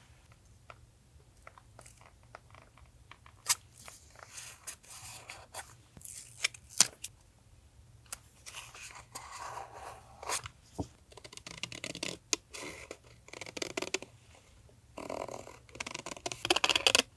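Paper being handled and rustled for a collage journal in several short bursts, with a few sharp clicks and taps between them.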